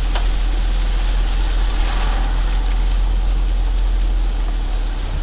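Strong wind gusts buffeting the microphone: a loud, steady low rumble with a hiss above it, easing a little near the end.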